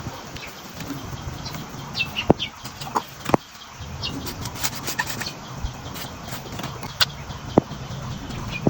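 Scattered short bird chirps and sharp clicks over a steady low background rumble.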